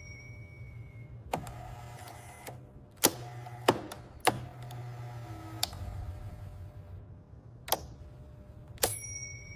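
Factory machinery running: a steady low hum with sharp mechanical clacks at irregular intervals, about seven in all, one of them followed by a brief metallic ring.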